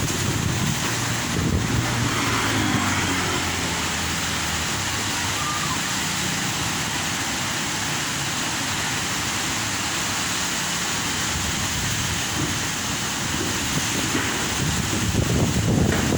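Strong wind rushing steadily through trees, with a faint low hum in the first half.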